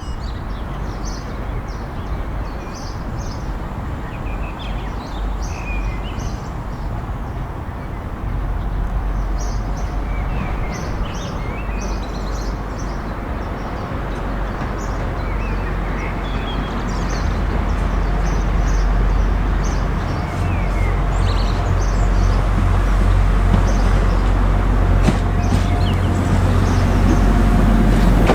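A diesel train's engine rumbling and growing gradually louder as it approaches. Small birds chirp over it now and then.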